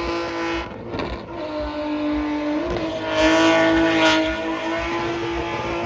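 Car engine held at high, steady revs while its tyres spin on the tarmac in a burnout. The revs dip briefly about a second in, then hold again, with the tyre noise loudest around three to four seconds in.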